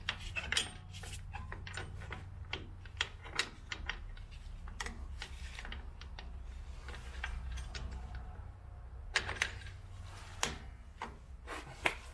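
Irregular light metallic clicks and clinks of drum brake hardware being handled as the star-wheel adjuster is fitted into a rear drum brake, over a low steady hum.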